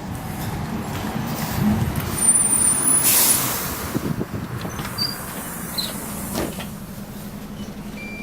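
Optare Solo bus running, heard from on board: a steady low engine hum, a loud burst of air hiss about three seconds in, and a few brief high-pitched squeaks.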